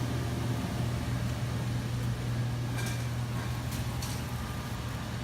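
Steady low mechanical hum, with a couple of faint clicks about three and four seconds in.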